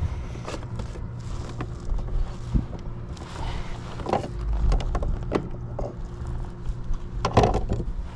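A motor hums steadily at a low pitch, with scattered light knocks and taps over it, the loudest cluster near the end.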